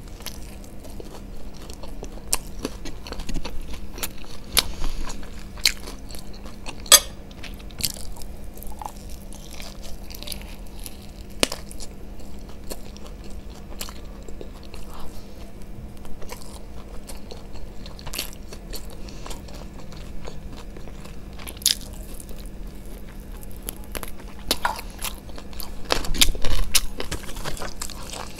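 Close-miked biting, chewing and crunching of a spicy fried chicken lollipop, with many short wet mouth clicks scattered throughout. A louder burst of chewing comes near the end.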